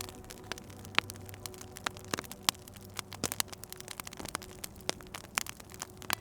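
Fireplace fire crackling, with irregular sharp pops and snaps of varying loudness over a soft steady hiss.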